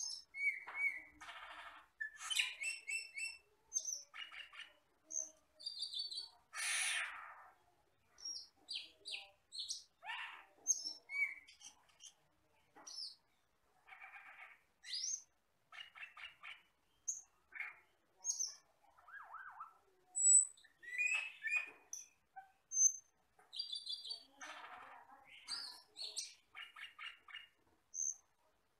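Camperling (cucak keling) bird singing a varied string of short calls: clear whistles, quick rising and falling chirps and fast rattling click series, with brief pauses between phrases.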